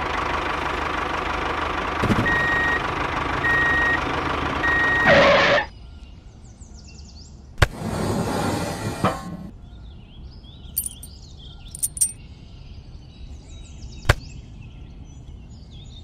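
A vehicle engine running steadily with three short reversing beeps, then cutting off about five and a half seconds in. Later come a sharp click, a short burst of noise and another click.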